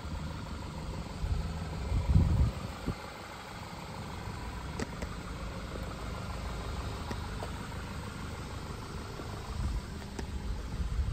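Car engine idling steadily with an even low hum, with a few low thumps about two seconds in and again near the end.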